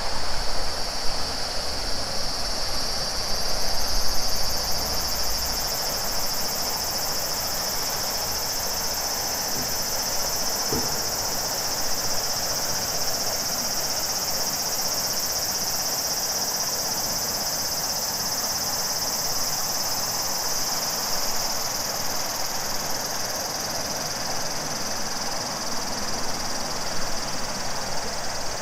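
A chorus of cicadas singing steadily, over the even rushing of a large river. A low rumble sits underneath for the first six seconds or so, then stops.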